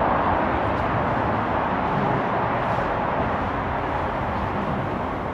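Steady wash of motorway traffic noise, the tyre and engine sound of cars streaming past, loud enough that speech has to be raised over it.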